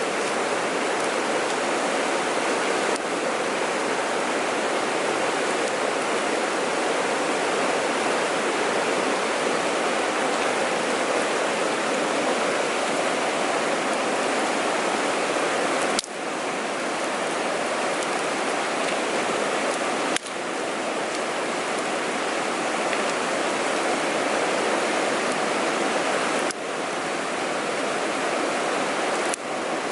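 Steady rushing of water in a mountain stream. The sound breaks off and resumes abruptly a few times, with a brief dip each time.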